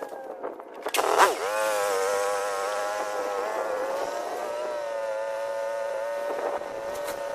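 Small gasoline engine running steadily. About a second in, its pitch dips sharply under load and recovers, with a few sharp knocks near the start and near the end.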